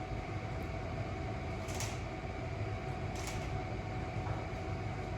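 Steady low hum of a fan or air-conditioning unit in a small room, with a faint steady tone. Two short breathy puffs come about two and three seconds in.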